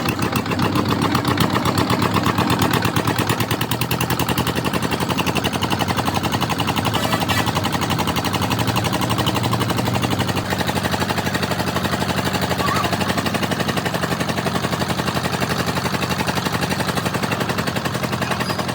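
Petter diesel engine running steadily, its firing heard as a fast, even train of sharp beats.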